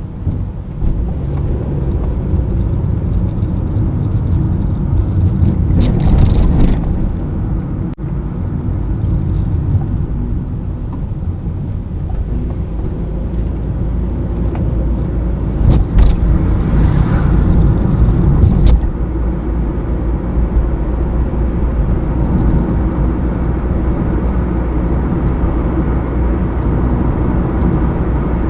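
Car driving along a highway: a steady low rumble of engine and road noise, with brief louder rushes about six seconds in and again around sixteen to nineteen seconds in.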